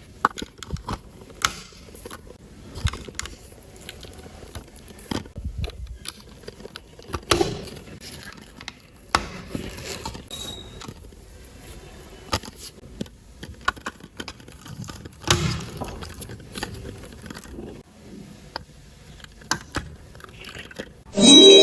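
Plastic LEGO bricks clicking and rattling as pieces are handled and pressed together: irregular sharp clicks with short scrapes. Music with a bell-like melody comes in near the end.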